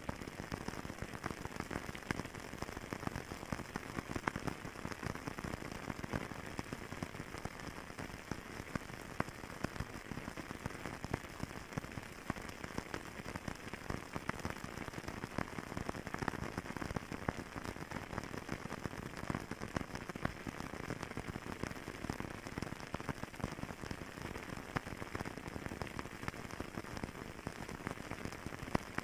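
Wood fire crackling in a fireplace: a steady hiss thick with small pops and snaps, a few louder than the rest.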